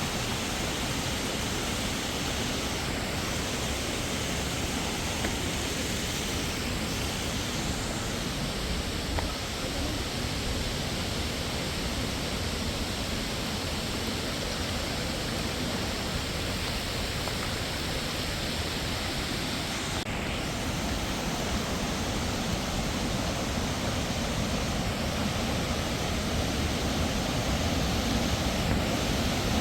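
Waterfall's steady rush of falling water, an even roar without a break.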